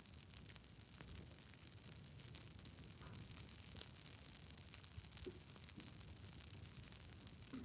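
Wood campfire crackling faintly: many small, irregular pops and snaps over a steady low hiss.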